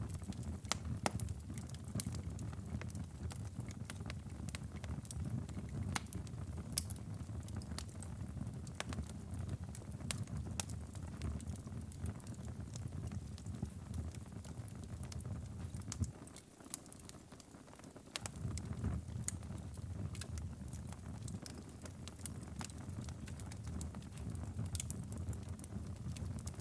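Wood fire crackling in a fireplace, with frequent sharp pops over a low steady rumble. The rumble drops away for a couple of seconds about two-thirds of the way through.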